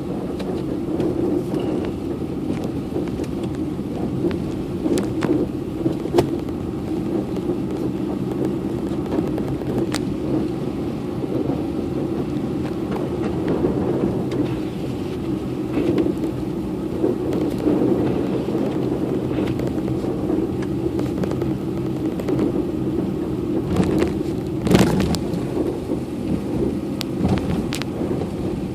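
Steady low rumble of a car driving on a snowy road, heard from inside the car, with scattered light clicks and knocks and a sharper knock near the end.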